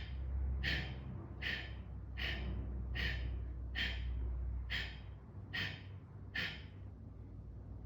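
Kapalabhati breathing: a steady series of short, forceful exhalations through the nose, about nine sharp puffs at roughly one every 0.8 seconds, the slow pace meant for beginners.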